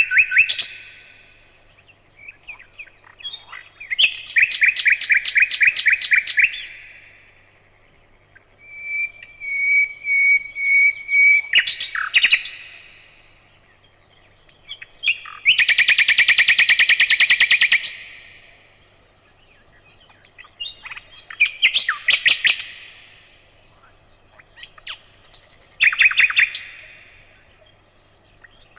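Nightingale singing in separate loud phrases a few seconds apart: rapid trills of repeated notes, a clear drawn-out whistle, and a long dense rattle about halfway through.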